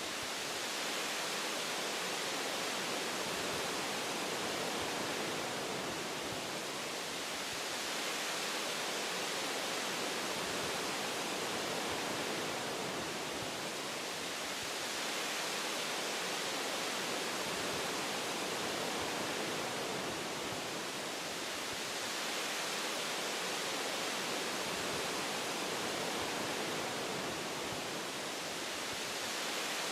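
Steady rushing hiss of wind through forest branches, blended with white noise, swelling and easing gently about every seven seconds.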